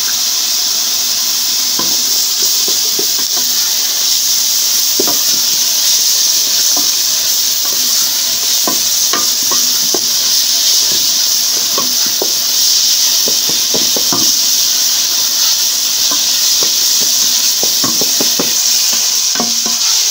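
Chopped onions, sweet peppers and tomato paste sizzling steadily as they fry in oil in an aluminium pot, with a wooden spoon scraping and knocking against the pot as the mixture is stirred.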